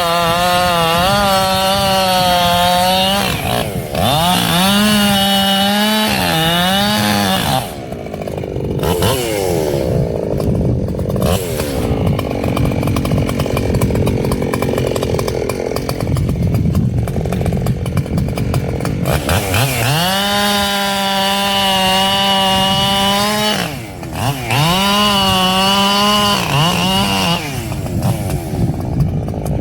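Echo CS-7310 two-stroke chainsaw running at high revs in bursts, falling away and opening up again. For a long stretch in the middle the engine note drops lower and rougher.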